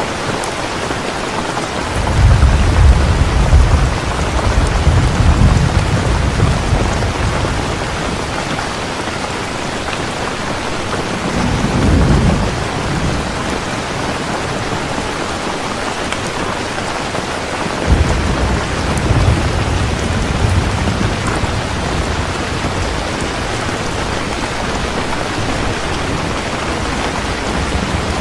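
Heavy rain falling steadily, with three rolls of low thunder. A long one starts about two seconds in, a short one comes near the middle, and a third begins abruptly about two-thirds of the way through.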